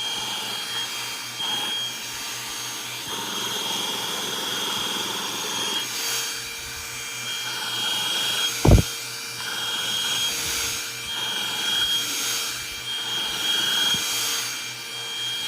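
ONSON cordless handheld vacuum running steadily with a constant high whine, sucking cashew crumbs and salt off bedding. A single thump about nine seconds in.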